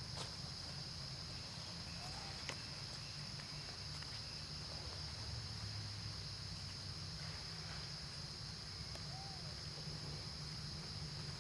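Steady high-pitched insect drone over a low rumble, with a few faint short chirping calls and a couple of light clicks.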